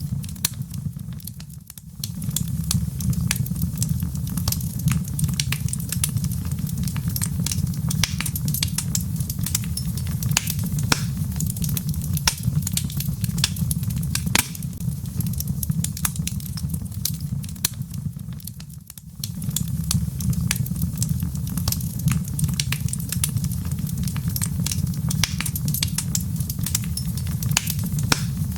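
Log fire crackling, with frequent sharp pops and snaps over a steady low rumble. Twice the whole sound briefly fades down and comes back.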